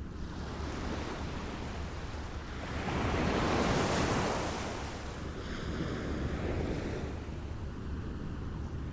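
Small waves lapping at the shore in a steady wash, with one wave swelling and breaking about three seconds in, then a smaller one a few seconds later.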